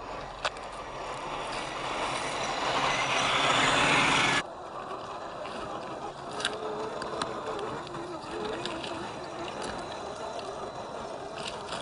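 1/10-scale RC crawler driving over dirt: tyres crunching on the ground, growing louder for about four seconds and then cutting off abruptly. After that, quieter crunching with small clicks of stones and a faint wavering whine of the electric motor and gears.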